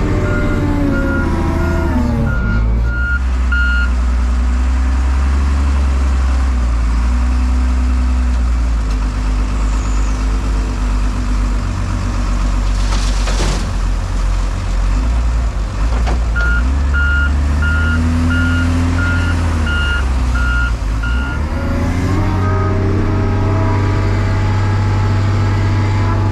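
Wheel loader's diesel engine running hard; its speed drops in the first two seconds and climbs again a few seconds before the end. A reversing alarm beeps about twice a second for the first few seconds and again for about five seconds in the second half, with a short hiss about halfway through.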